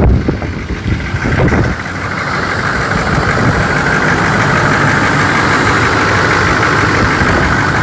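2003 Chevrolet 6.6-litre Duramax V8 turbo diesel cold-starting at about −17 °C. It fires with a sudden loud burst, runs unevenly for a second or two, then settles into a steady idle.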